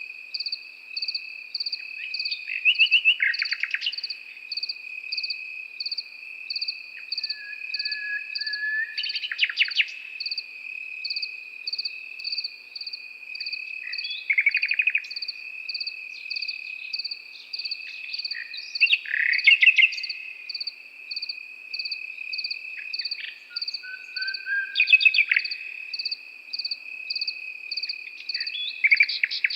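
A nightingale singing in separate phrases every five seconds or so, each a fast run of repeated notes, some with low whistled notes, over crickets trilling steadily with an evenly pulsing chirp above them.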